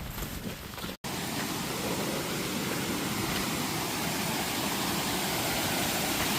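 Steady rush of running water, a stream or waterfall, starting abruptly at a cut about a second in and holding even.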